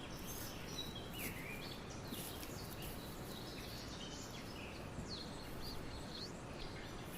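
Woodland birds calling: many short, high chirps and gliding notes from several birds, over a steady low background rumble.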